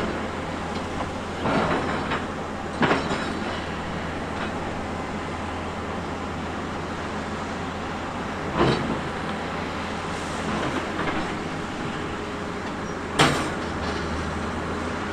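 Tracked heavy construction machine's diesel engine running steadily under work, with several sharp metal clanks, the loudest a little before the end.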